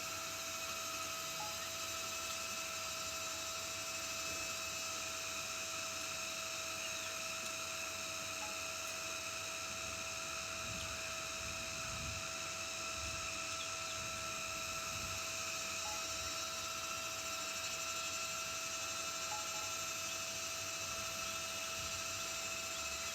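A steady hum with a constant high whine over background hiss, unchanging in pitch and level.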